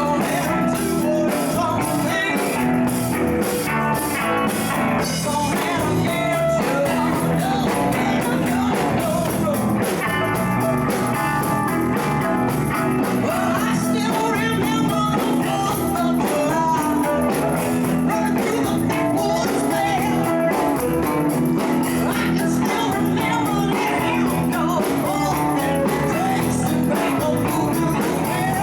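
Live band playing a blues-rock jam with electric guitar and a steady beat; a voice may be singing over it.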